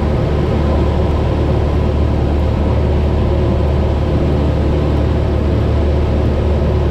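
Cessna 172's piston engine and propeller droning steadily in cruise flight, at a constant pitch and level.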